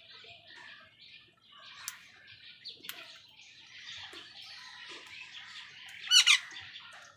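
A crowd of birds and crows squabbling over food: dense overlapping chattering and squawking calls, with two loud harsh calls in quick succession about six seconds in.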